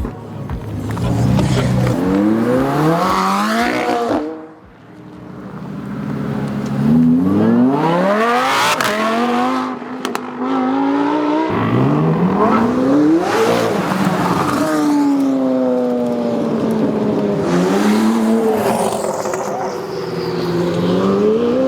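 Sports car engines revving hard as cars accelerate away, the engine pitch climbing in several long pulls, each cut off by a sudden drop in pitch.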